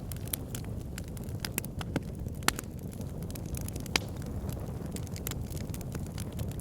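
Wood fire burning in an outdoor fire pit: a steady low rumble of flames with irregular sharp crackles and pops, two louder pops about two and a half and four seconds in.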